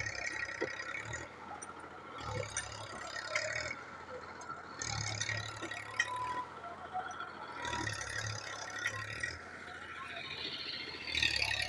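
Tractor engine running, its low sound swelling and fading every second or two.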